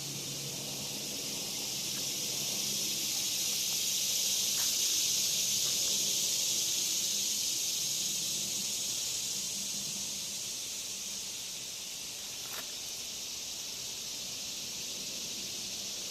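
Insect chorus: a steady high, hissing buzz that swells over the first few seconds and eases off again after about ten seconds.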